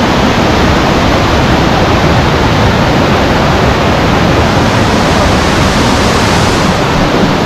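Waterfall water rushing, loud and steady, with no let-up.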